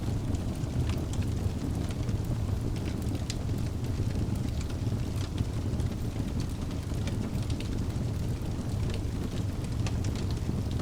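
Wood fire burning in a fireplace: a steady low rumble of the flames with frequent small sharp crackles and pops scattered throughout.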